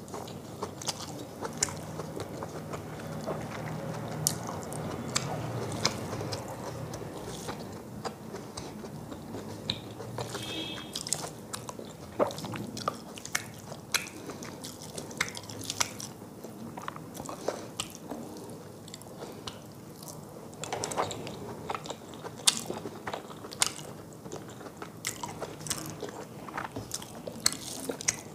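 Close-miked chewing and mouth sounds of a person eating rice and fish curry by hand, with many sharp wet clicks and smacks.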